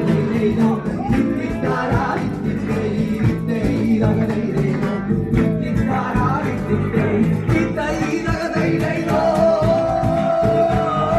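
Live band music: guitar and drums playing, with a voice singing, and a lead line coming forward near the end.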